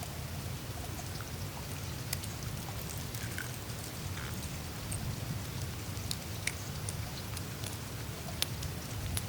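Melting glacier ice surface: meltwater trickling and dripping over a steady low rumble, with scattered sharp ticks and clicks from the melting ice, a few of them louder.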